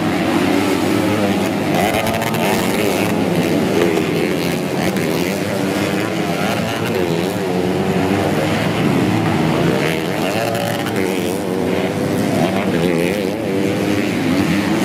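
Several modified underbone (bebek) race motorcycles running on a dirt track, their engines revving hard so the pitch keeps rising and falling as the bikes accelerate and shift.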